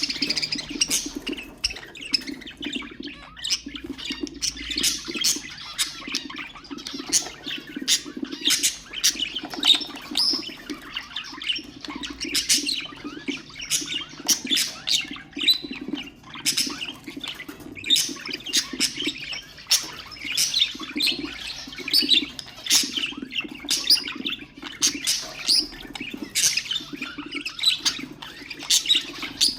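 A flock of budgerigars chattering, with dense, overlapping short chirps and squawks that run on without pause.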